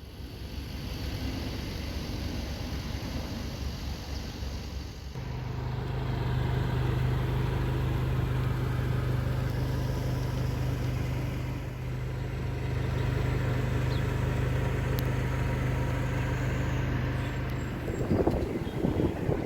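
2009 Nissan Altima on the move, engine and road noise. A steady low hum comes in about five seconds in and holds level until near the end, when louder buffeting takes over.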